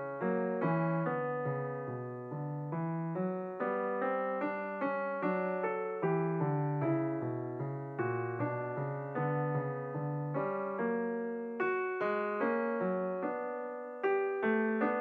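Background piano music: a gentle run of single struck notes and chords, each note fading before the next.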